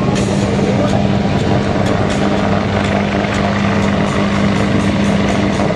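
Bell UH-1Y Huey helicopter hovering, a steady loud turbine-and-rotor hum with a strong low tone, with scattered sharp clicks over it.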